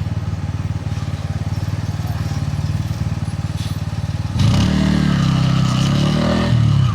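Bajaj Pulsar N160's single-cylinder engine and exhaust running steadily at low revs, then about four seconds in it gets suddenly louder as the throttle opens, the pitch rising and falling as the bike accelerates.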